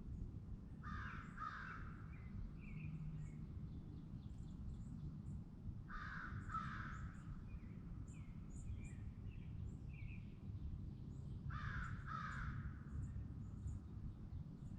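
A crow cawing, two caws at a time, three times about five seconds apart. Between the caws, smaller birds chirp faintly over a steady low rumble.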